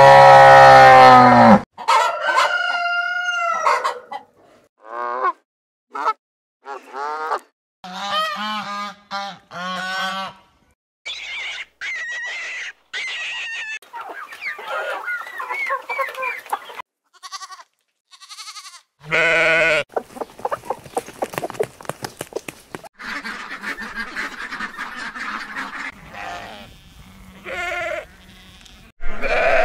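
A string of short animal-call recordings cut one after another, mostly farmyard birds honking and clucking.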